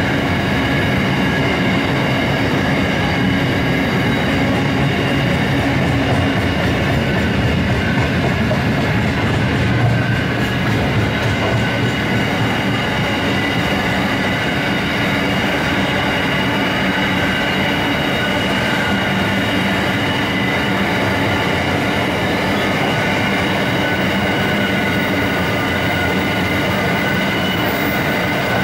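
Empty steel-train freight wagons rolling past on the main line: a steady loud rumble and clatter of wheels on rail, with steady high-pitched tones over the wheel noise.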